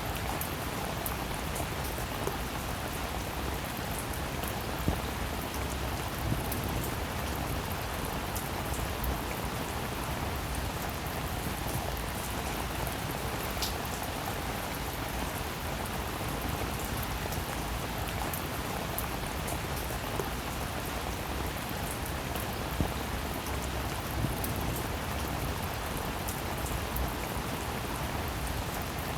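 Steady rainfall, an even hiss with many small drop ticks and a few louder single drips now and then.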